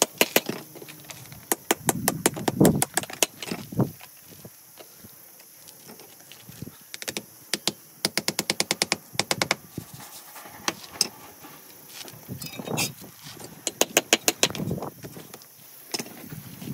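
Rapid runs of sharp taps, about six a second, coming in three bursts with short pauses and a few duller knocks between them: a hammer striking natural stone to trim and shape pieces for wall cladding.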